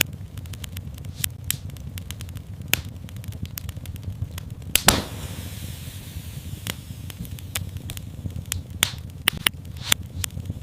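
Fire in a fireplace crackling, with many sharp irregular pops over a steady low rumble of flame. One louder crack comes about halfway through, followed by a brief hiss.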